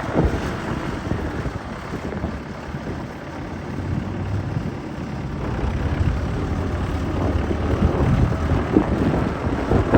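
Massey Ferguson 2680 HD tractor's diesel engine running steadily, with wind buffeting the microphone; the rumble grows a little louder after the middle.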